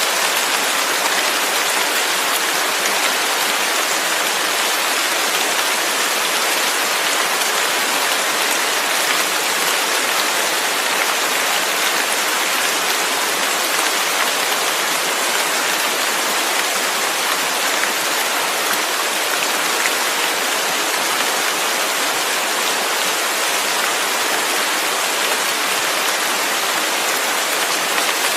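Steady rain falling, an even hiss of dense drops with no change in strength.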